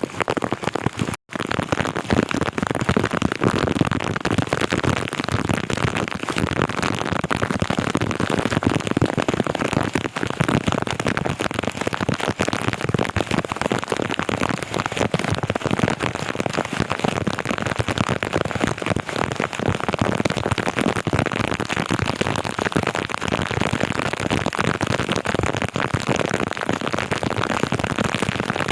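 Heavy rain falling steadily, a dense crackle of close drops hitting hard surfaces, with a brief drop to silence about a second in.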